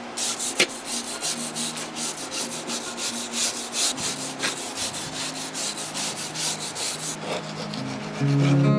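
Quick, even back-and-forth hand strokes, about five a second, abrading the peeling paint off a painted wooden deck fascia. The strokes stop about seven seconds in, and acoustic guitar music comes in near the end.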